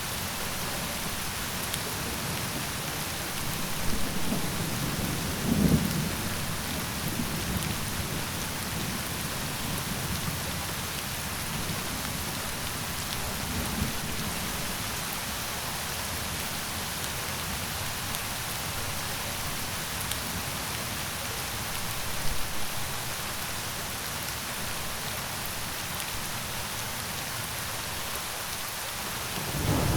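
Steady rain falling, an even hiss throughout. Low rumbles of thunder come about four to eight seconds in, briefly again past the middle, and build up right at the end.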